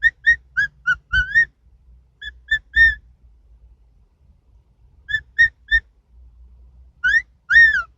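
Pet bird whistling in short chirpy notes, in quick groups of three to five, ending with two longer whistles that rise and fall.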